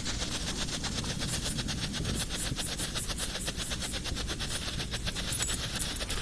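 Strobe firework crackling: a fast, steady run of sharp pops, many per second.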